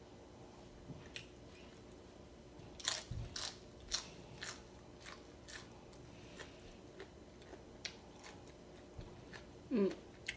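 Close-up mouth sounds of a person eating by hand: crisp crunches and chewing, a quick run of crunches about three seconds in, then scattered ones. A short hum-like vocal sound near the end.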